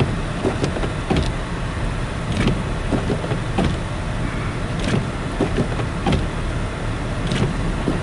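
Car driving on a snow-covered road, heard from inside the cabin: a steady low rumble of road and engine noise with short knocks and scrapes coming irregularly about once a second.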